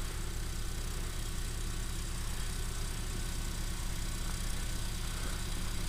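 Portable generator's engine running steadily under load, an even hum with a fast low pulse, powering the house during a power outage.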